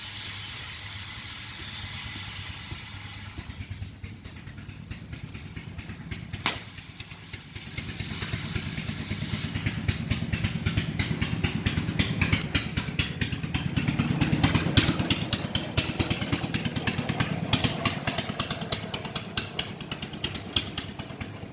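A small engine running with a fast, even firing beat. It comes in about a third of the way through, is loudest around the middle and eases off toward the end. A sharp click comes just before it starts.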